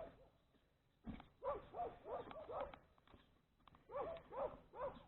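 A dog whining and yipping in short, faint calls that rise and fall in pitch, in two runs of several calls each, with a few faint clicks between.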